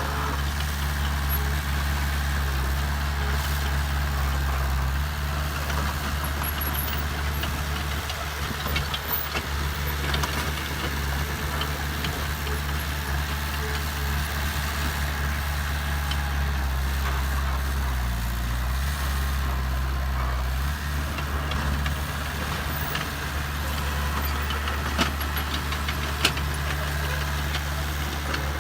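Diesel engine of heavy earthmoving machinery running steadily, its low hum shifting slightly in pitch now and then, with two short knocks near the end.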